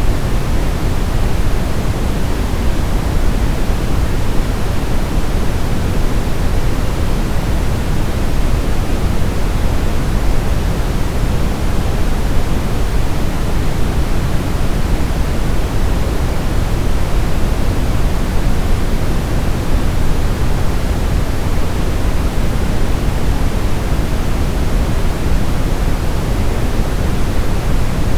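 Steady synthetic sleep noise for babies: an even, unbroken hiss, deeper and heavier in the bass than in the treble.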